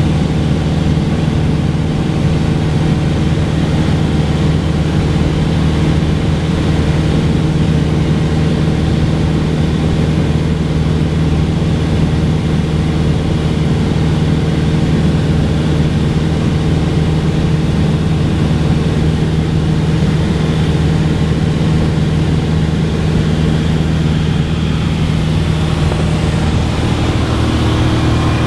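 Cessna 182's piston engine and propeller running steadily at constant power, with a slight shift in the engine note near the end.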